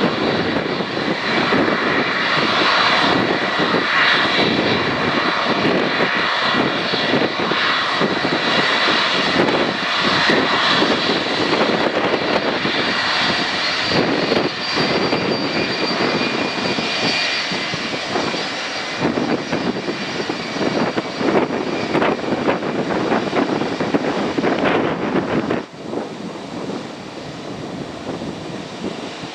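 Airliner engines running loud close by, a roar with a high whine over it, with wind buffeting the microphone; the sound falls away sharply near the end.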